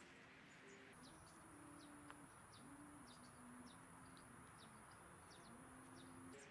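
Faint backyard ambience with many short, high chirps from small birds and a few lower held tones. The background changes abruptly about a second in and again near the end.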